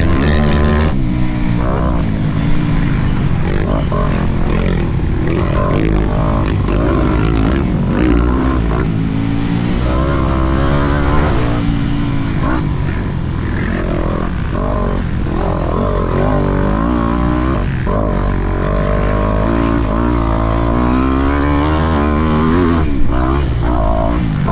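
Motocross bike engine running hard, its pitch repeatedly rising and falling as the throttle is opened and shut, with occasional knocks and clatter; a sharp knock near the end is the loudest moment.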